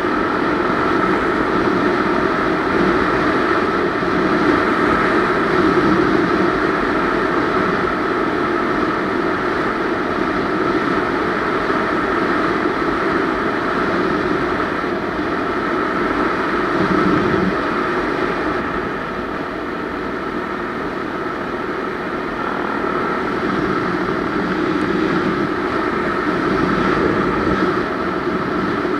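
Honda XR250 Tornado motorcycle's single-cylinder engine running steadily, dipping a little in level about two-thirds of the way through.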